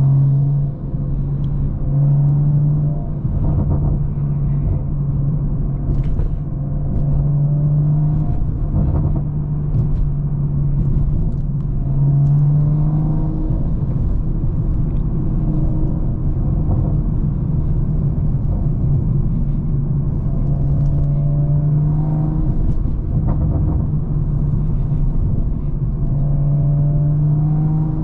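BMW M340i's big-turbo B58 inline-six running at a steady cruise, a constant low drone that steps slightly up and down in pitch with small throttle changes.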